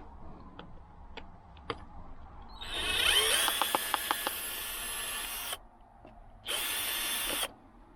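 Power drill-driver backing a screw out of wood: one run of about three seconds, starting with a rising whine, then a shorter run of about a second.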